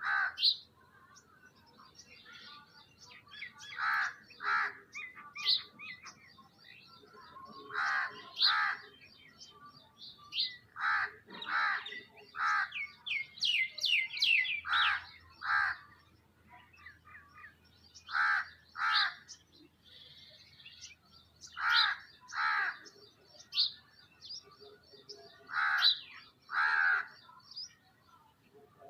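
A mix of birds calling: short harsh calls that come mostly in pairs, several seconds apart, with thin high chirps between them and a quick run of rising notes about halfway through.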